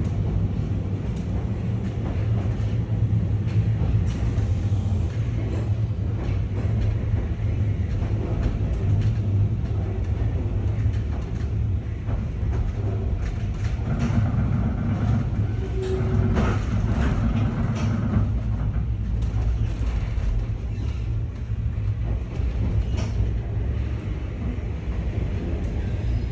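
Nankai 2200-series train running, heard from inside the carriage: a steady low rumble with scattered clicks from the wheels and track, and a higher steady tone joining for a few seconds just past the middle.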